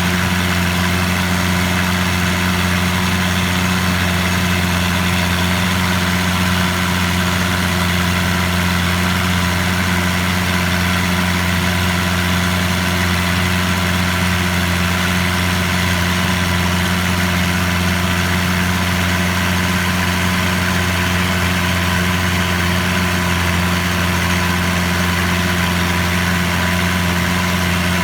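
Boat engine running steadily at constant speed, a loud, unchanging low drone.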